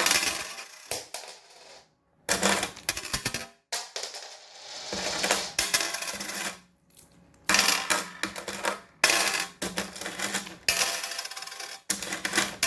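Coins clattering and jingling in repeated bursts of clinks as a parrot picks them up and flings them about, with short pauses between the bursts.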